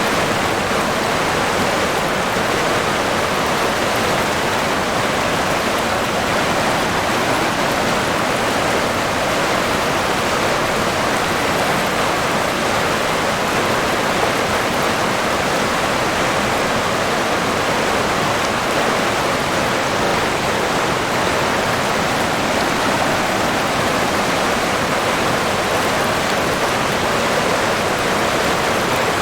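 River water rushing and burbling in a steady, unbroken wash of noise.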